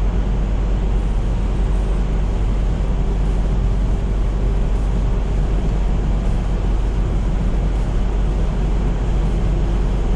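Steady drone of a semi truck's engine and tyres at highway speed, heavy in the low end and unchanging throughout.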